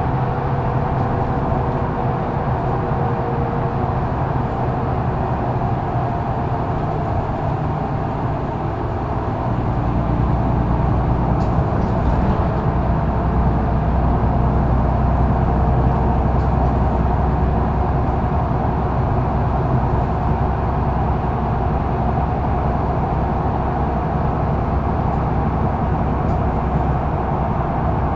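Mercedes-Benz O530 Citaro Facelift intercity bus heard from inside the cabin while driving: a steady diesel engine and road noise. About ten seconds in, the engine note grows louder and deeper.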